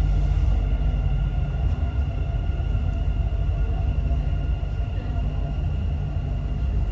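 Dubai Metro train heard from inside the car: a steady low rumble with a faint even hum of steady tones above it.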